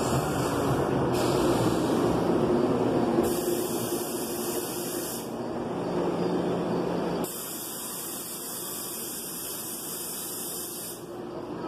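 NJ Transit commuter train rolling in along the platform and braking: a loud, steady rush of wheel and brake noise. About seven seconds in it drops sharply as the train comes to a stand, leaving a steady airy hiss.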